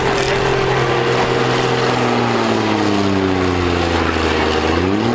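Combine harvester diesel engines running hard together. One engine's pitch sinks steadily for about two and a half seconds as it bogs down, then picks back up sharply near the end.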